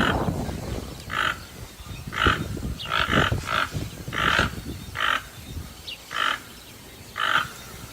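Toucan calling: a series of short, harsh croaking calls repeated about once a second, with a few faint chirps from another bird.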